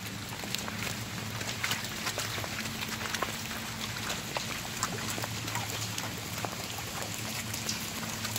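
Steady rain falling, with many separate drops ticking on nearby surfaces, over a faint low steady hum.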